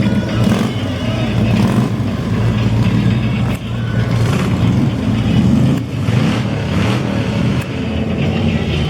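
A vehicle engine running, its pitch wavering up and down a little.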